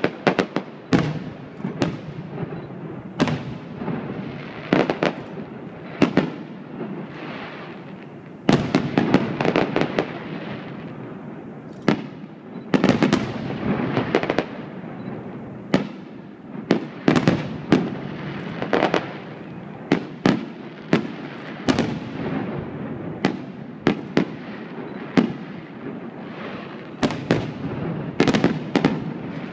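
Fireworks display: aerial shells bursting in quick, irregular succession, many sharp bangs, some in rapid clusters, each followed by a rolling rumble.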